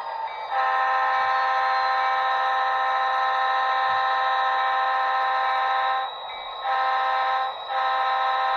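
Sound-equipped HO scale SD40-3 model locomotive sounding its multi-chime diesel horn through its small onboard speaker: one long blast of about five seconds, then two shorter blasts near the end. A fainter, steady engine sound runs underneath.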